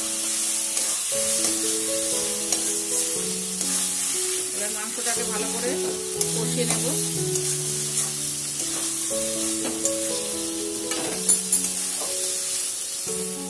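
Boneless chicken pieces sizzling as they fry in a spiced masala in an aluminium kadai, stirred with a metal spatula that scrapes against the pan. Soft background music with held notes plays throughout.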